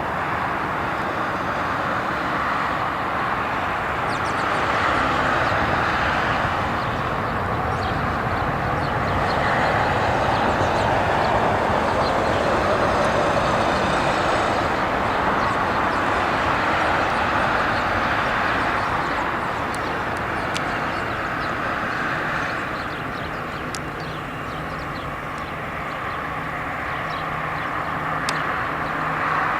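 Jet engines of an Airbus A340-600 at takeoff power: a steady rushing noise that swells and eases slowly. A few faint clicks come in the second half.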